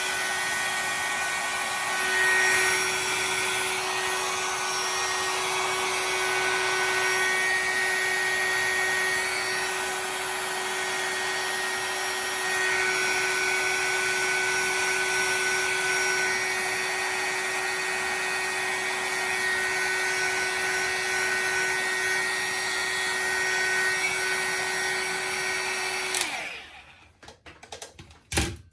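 A hot-air blower runs steadily, with a motor whine over rushing air, while it heats a stuck RC nitro carburetor to free it. It is switched off a little before the end and winds down, and then there is one sharp knock.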